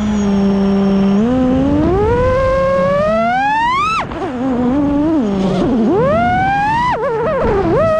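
FPV quadcopter's brushless motors whining, the pitch moving with the throttle: steady for about a second, climbing for about three seconds, dropping sharply about four seconds in, then rising and falling in quick swings.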